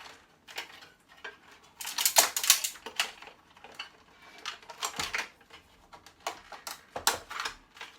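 Irregular clicks and clattering of small hard plastic and metal parts and cables being handled and pulled while electronic scrap is taken apart by hand, in several short bursts.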